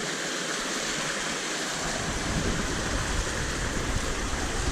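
Steady rush of flowing river water, with a low rumble coming in about two seconds in.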